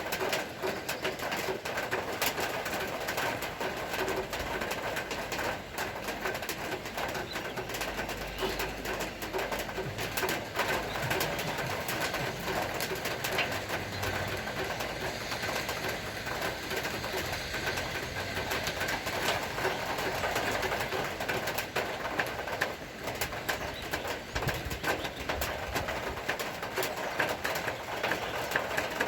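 Steady rain pattering, thick with small drip clicks, with a bird calling over it.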